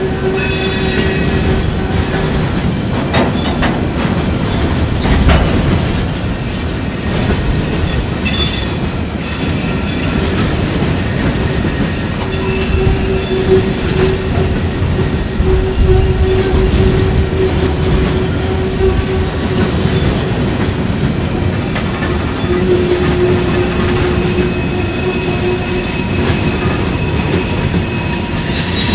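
Empty freight hopper cars rolling past on a curve: a steady rumble and clatter of steel wheels on rail, with the wheel flanges squealing in drawn-out, on-and-off tones. A few sharp clanks come in the first third.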